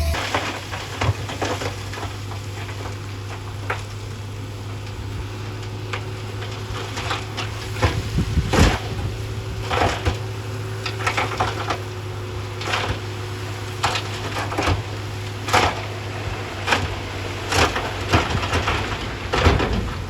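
Rocks knocking and clattering against each other in irregular sharp cracks, over the steady low running of a heavy earthmoving machine's engine.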